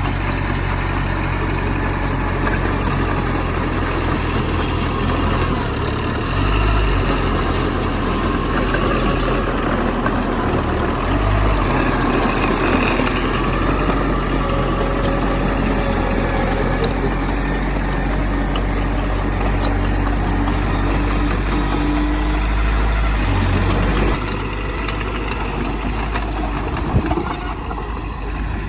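Heavy earthmoving machinery engine running steadily with a strong low rumble, easing off somewhat about 24 seconds in. A single brief knock near the end.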